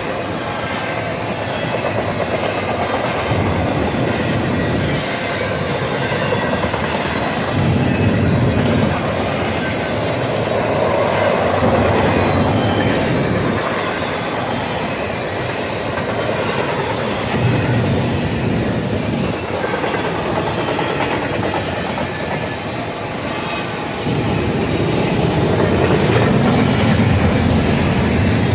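Double-stack intermodal container well cars rolling past: a continuous rumble of steel wheels on rail with clickety-clack over the rail joints, swelling and easing as the cars go by.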